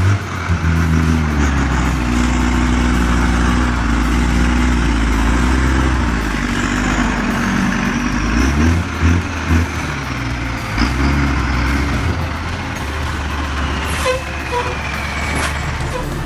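Heavy machine's engine running under load, its pitch dipping and recovering about halfway through, with a few sharp knocks near the end.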